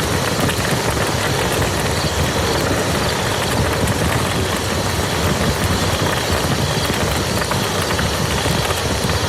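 Steady rain falling on a muddy field, a dense, even patter of drops with a heavy low rumble underneath.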